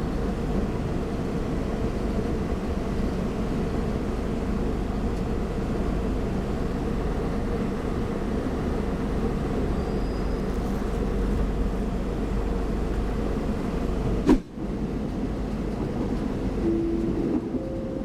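An electric commuter train running along the track with a steady rolling rumble. About fourteen seconds in there is a single sharp knock, and near the end a short steady tone sounds, then a higher one.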